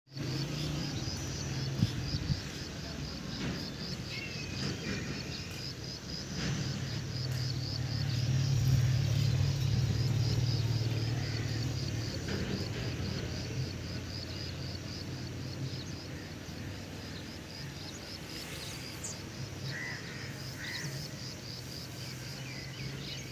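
Outdoor nature ambience: a high chirping that repeats in a fast, even pulse throughout, over a low steady rumble that swells about a third of the way in, with a few short bird-like calls near the end.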